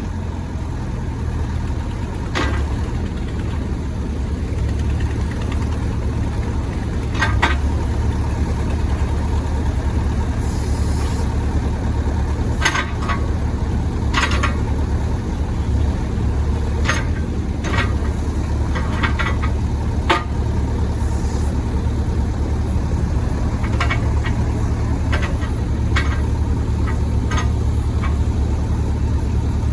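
Yanmar 4TNV94L four-cylinder diesel engine of a 6-ton excavator running steadily with a low drone, with a dozen or so short sharp knocks scattered over it.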